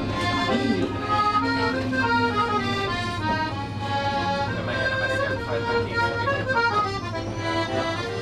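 Accordion playing a melody with held chords.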